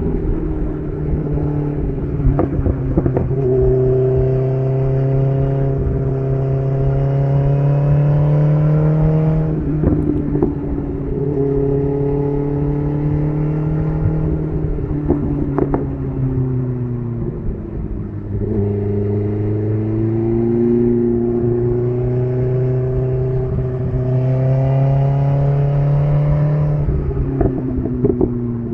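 BMW S1000RR's inline-four engine running through an SC Project CR-T titanium exhaust while riding. The note climbs slowly and then drops back three times as the throttle is eased or a gear is changed.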